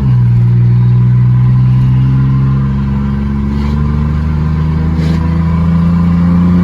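Chevy S10 pickup's engine running with its muffler removed, held at steady high revs: a loud, unmuffled exhaust note that dips briefly at the start, then slowly climbs in pitch.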